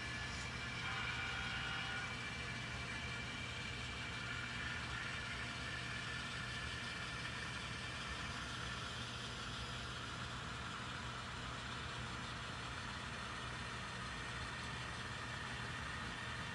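N scale model diesel locomotive running on the layout: a steady low hum with a faint whine that drifts slightly in pitch.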